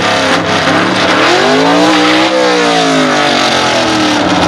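Drag-racing station wagon's V8 engine revving up for about two seconds and then backing off as the car makes a dry hop, a brief run forward to heat the tyres before staging.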